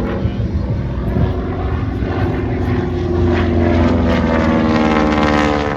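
Propeller airplane's engine running as the plane flies past. It grows louder about halfway through, and its pitch falls near the end as it goes by.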